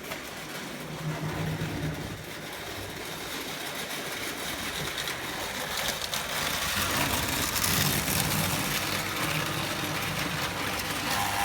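Prewar Lionel O gauge tinplate train running on track: the electric motor whirs steadily and the wheels click along the rails, growing gradually louder.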